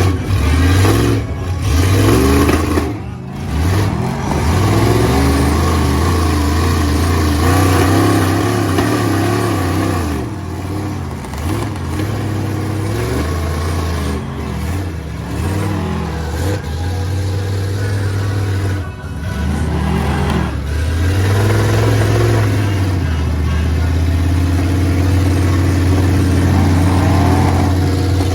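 Off-road truck engines revving up and down repeatedly, with background music under them.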